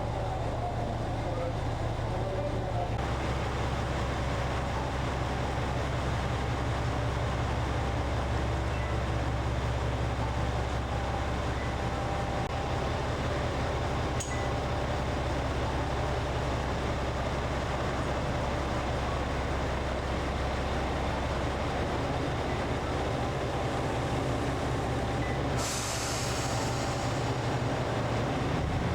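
Diesel train engines running steadily at the station platform as the limited express prepares to leave, with a brief air hiss near the end.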